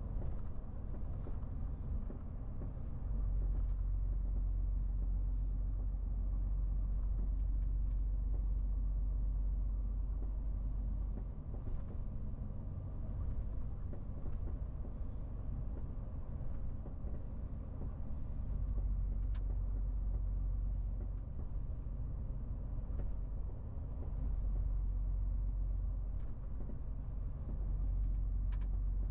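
MAN TGX 18.470 truck's six-cylinder diesel engine and road noise heard while driving: a steady low rumble that grows louder in several stretches and eases off between them.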